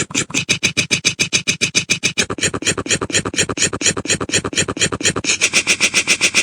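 A fast, even stutter of short, identical pulses, about eight a second, like a looped electronic glitch or rapid-fire effect. Its tone shifts about two seconds in and again about five seconds in.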